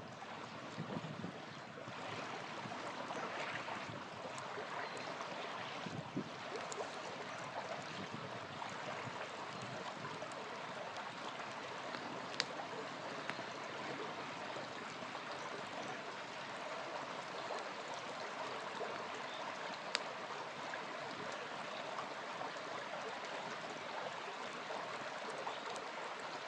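A small river flowing steadily. Two sharp pops from a campfire stand out, about twelve seconds in and again about twenty seconds in.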